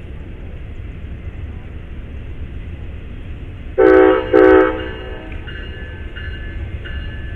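Train horn sounding two short blasts about four seconds in, over a steady low rumble of train noise.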